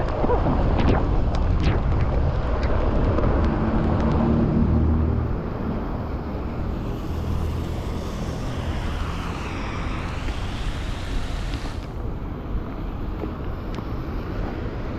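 Wind rumbling on the camera microphone of a moving bicycle, over traffic and the hiss of tyres on a rain-wet road. It is louder for about the first five seconds, then eases, with a higher hiss swelling and fading in the middle.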